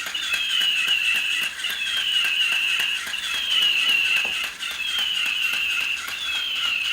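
Battery-powered toy bird chirping: the same short falling electronic tweet repeats about every second and a half, over a fast even ticking of its wing-flapping mechanism, about four ticks a second.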